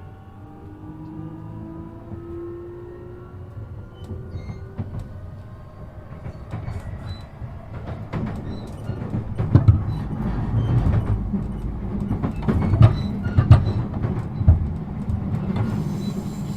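E233-7000 series electric train's traction motor whine rising steadily in pitch as the train accelerates. It then gives way to growing rolling noise with sharp knocks of the wheels over rail joints.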